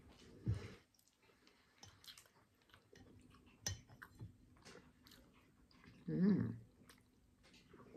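Chewing and wet mouth sounds of someone eating pasta with meatballs, with scattered sharp clicks of a metal fork against the plate. About six seconds in there is a short hummed "mmm".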